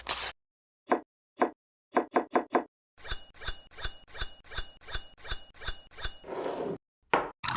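Knife cutting through raw potato onto a cutting board: a few single chops, then a quick even run of about four cuts a second for some three seconds.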